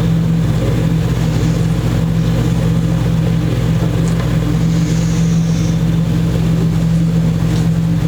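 Steady, unchanging mechanical hum of a motor running.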